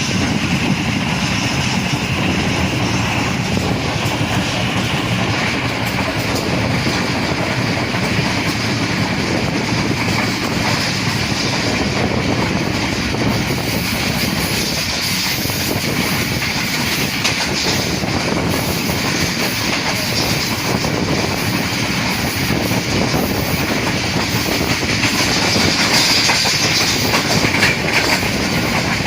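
Rehman Baba Express passenger train running along the track: a steady rumble of wheels on rails with the clickety-clack of rail joints, growing a little louder near the end.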